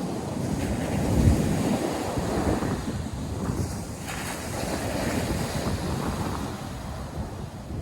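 North Sea surf washing onto the shore in a continuous, surging rush of waves, with wind buffeting the microphone.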